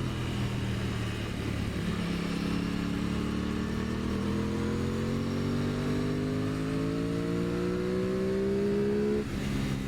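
Aprilia Tuono 660's parallel-twin engine pulling in one gear, its pitch rising slowly and steadily for about seven seconds, then dropping suddenly near the end.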